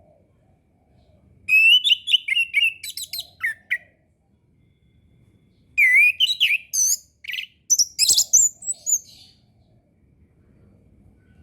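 Orange-headed thrush (anis kembang) singing: two bursts of quick, varied, high whistled phrases, one starting about a second and a half in and the other about halfway through, each lasting a few seconds.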